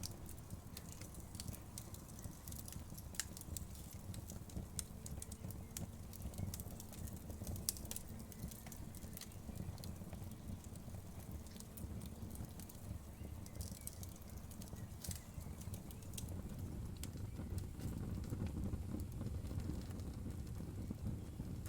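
Wood fire crackling, with scattered sharp pops and snaps of burning wood over a low, steady rumble of the flames.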